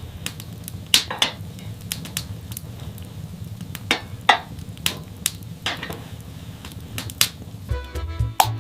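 Irregular sharp clicks and knocks, a dozen or so spread unevenly, some with a brief ring, over a low steady hum.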